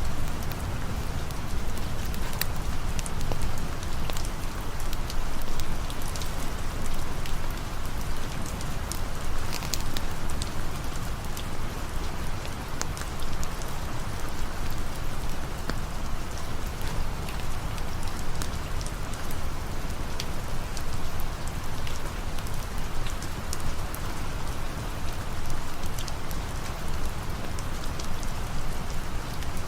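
Steady rain falling, with scattered sharp crackles, the pops of a campfire burning.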